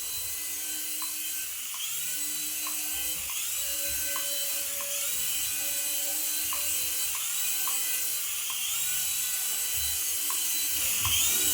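A small electric motor in a battery-powered toy whirring steadily, with short electronic tones and blips repeating over it.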